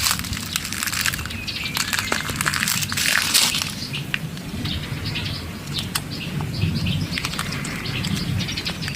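A small bird flapping its wings and chirping close by, with many short scratchy clicks and rustles throughout.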